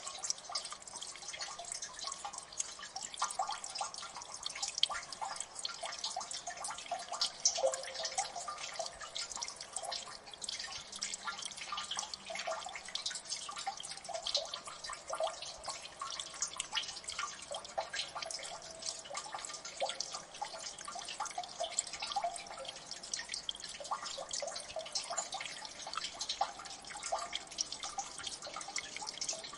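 Water dripping in a gully: many drops falling irregularly and densely, small sharp plinks and taps.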